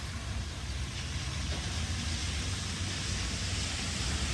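Steady wet hiss of rain and tyres on a wet road, growing slowly louder, over a low rumble.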